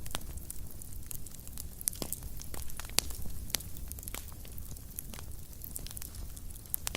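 Wood fire crackling in a fireplace: irregular sharp pops and snaps, several a second, over a low steady rumble of the burning flames, with one louder pop about three seconds in.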